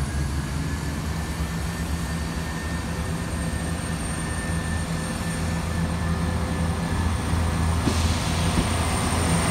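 Diesel multiple unit passing close along the platform: a steady low engine drone with a faint high whine, slowly growing louder, and a hissing rush of wheels and air rising about eight seconds in as the coaches go by.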